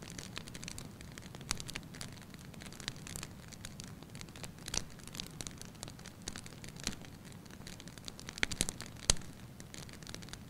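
Wood fire burning in a fireplace: a low steady rumble with irregular crackles and pops, and a quick run of louder cracks near the end.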